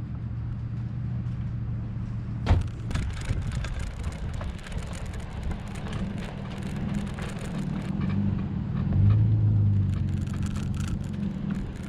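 Tow truck's engine running steadily at low revs, with a sharp knock about two and a half seconds in and crackling, rustling noise on the microphone after it. The engine note swells louder around nine seconds, then settles again.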